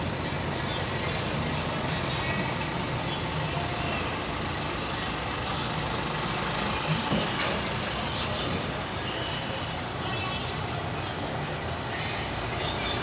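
Steady rumble of a heavy diesel engine running, with a few faint short knocks and high ticks over it.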